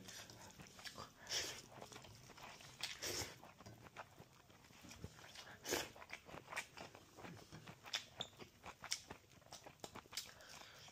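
Quiet, close-up chewing and mouth clicks of someone eating rice and fried fish by hand, made up of irregular small crackles.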